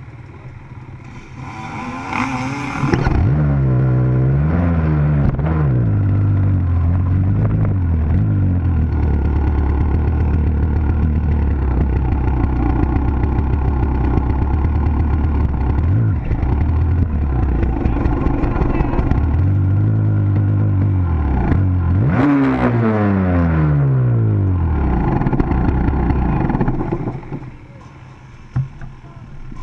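Dirt bike engine, loud and close, revving up and down as it runs through the gears. It comes in sharply about three seconds in and holds at high revs, falls in pitch around twenty-two seconds as it slows, then drops away about twenty-seven seconds in.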